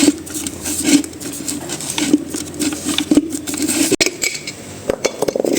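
Metal tools and small metal parts clinking, tapping and scraping as they are handled, with many short sharp clicks and rubbing strokes about once a second.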